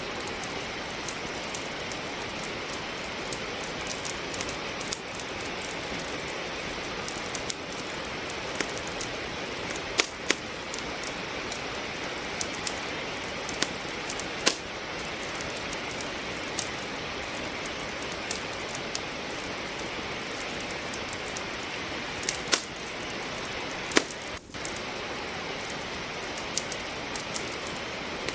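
Steady rain falling, with a wood fire crackling over it: irregular sharp pops and snaps from burning logs, a few of them much louder than the rest.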